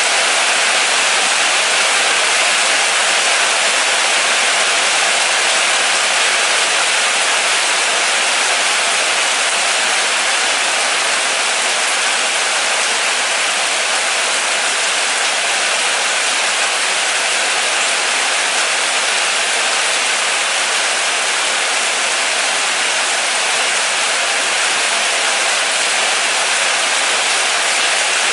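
Steady rain falling, an even hiss with no single drops, thunder or other sounds standing out.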